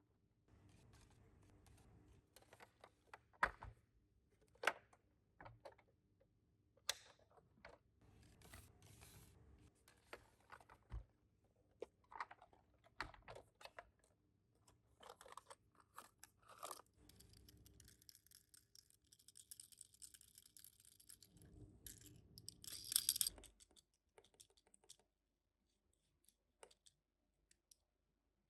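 Faint handling noises of Tomica die-cast minicars and their cardboard boxes: scattered small clicks and taps, with a stretch of rustling and tearing about three quarters of the way through, then only a few clicks.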